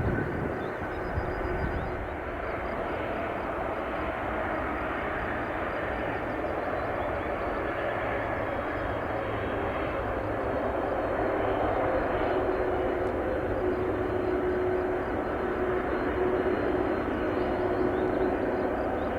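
Four turbofan engines of a Lockheed C-5M Super Galaxy running steadily: continuous jet noise with a steady hum and a faint high whine, growing slightly louder in the second half.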